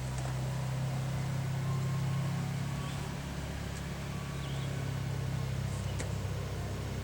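Steady low drone of an engine running, with a few faint clicks.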